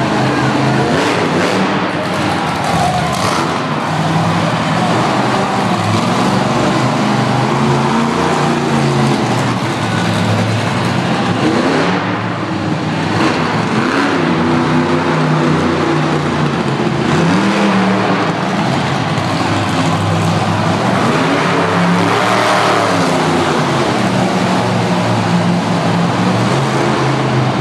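Monster truck engine revving hard, its pitch repeatedly climbing and falling as the throttle is worked, loud throughout.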